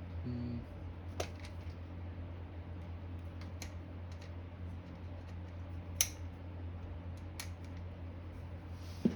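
A flathead screwdriver picking and scraping at dirt inside the motor's metal parts: a handful of sharp, separate clicks a second or two apart, the loudest about six seconds in and just before the end, over a steady low hum.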